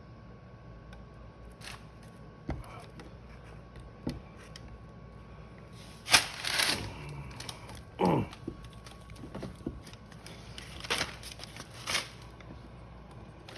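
Scattered scraping and rustling as a soldering iron works melted plastic into a cracked plastic bumper, over a steady faint hum. There are a few light clicks, louder rasping strokes midway and near the end, and a short falling squeak about eight seconds in.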